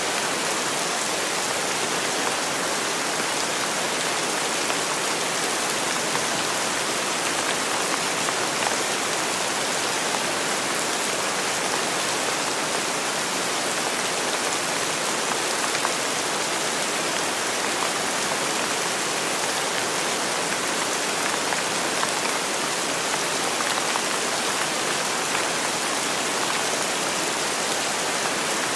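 Steady rain falling and pattering on a surface, an even, unbroken hiss with fine scattered drops.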